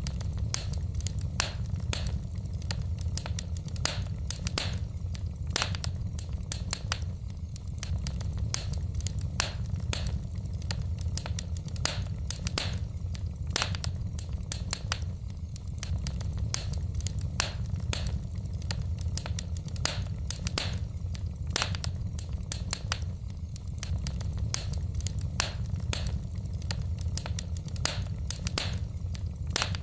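Wood fire burning in a fireplace: logs crackling and popping in quick irregular snaps over a steady low rumble of the flames.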